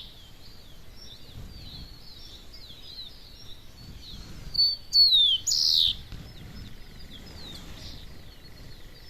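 Birds singing in a dawn chorus, with many small high chirps throughout. About halfway through, one bird gives a loud song of about a second and a half: short high notes, a falling slurred whistle, then a buzzy note.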